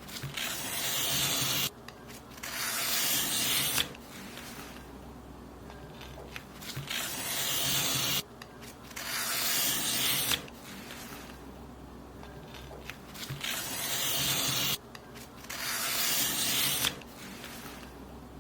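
Paper being cut: six long hissing strokes of about two seconds each, in three pairs with short pauses between the pairs.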